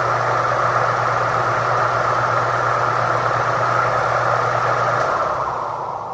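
Homemade ceiling fan driven by a GE furnace blower motor running at full speed: a loud, steady rush of air from the blades over a steady motor hum. About five seconds in there is a faint click, the motor hum stops and the rush starts to fade as the fan coasts down after being switched off.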